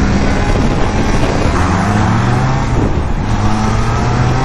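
Triumph Trident 660's three-cylinder engine accelerating under way, its pitch climbing, dropping about halfway through as it shifts, then climbing again.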